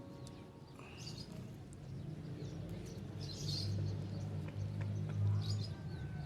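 Small birds chirping in three short bursts a couple of seconds apart, over a low steady rumble.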